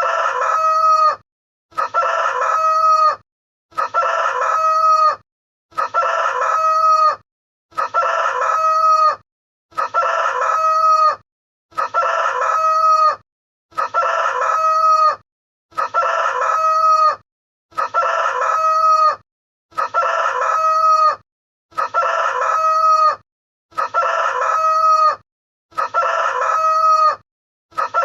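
A rooster crowing sound effect, repeated over and over, one identical crow about every two seconds.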